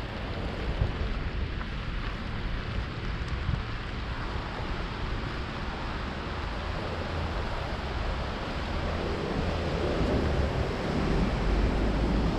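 Rainy street ambience: steady rain hiss with wind buffeting the microphone and a low rumble underneath, swelling a little in the last few seconds.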